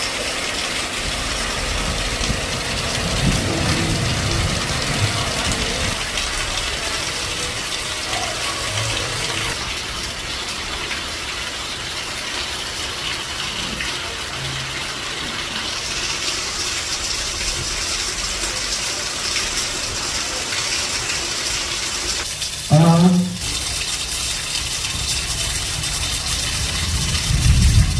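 Heavy rain falling steadily, with water gushing and pouring. Late on, a short, loud pitched sound cuts through briefly.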